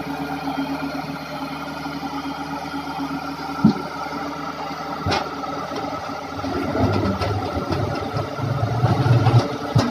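Hitachi excavator's diesel engine running steadily, growing louder and rougher for a few seconds in the second half, with three sharp knocks, one near the start of the second half, one about halfway and one at the very end.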